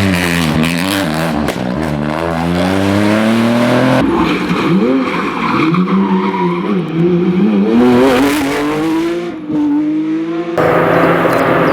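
Rally car engines revving hard, the pitch climbing and dropping again and again through gear changes and lifts off the throttle, with tyres skidding. The sound changes abruptly about four seconds in and again near the end, as from one car to another.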